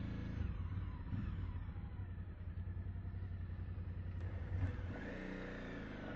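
Suzuki V-Strom motorcycle's V-twin engine running at low road speed, its note rising and falling gently as the throttle changes.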